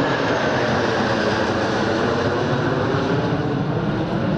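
Jet engines of a formation of MiG-21 and F-16 fighters flying past: a steady, loud roar with a faint whine sliding down in pitch at the start.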